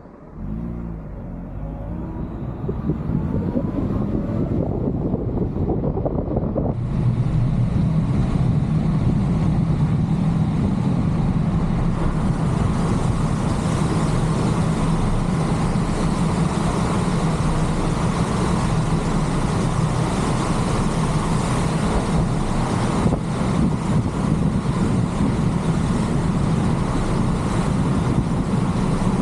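Car pulling away and accelerating, its engine note rising over the first few seconds. About seven seconds in, a louder hiss of tyre and wind noise sets in suddenly, then the car runs on at a steady speed with a constant road drone.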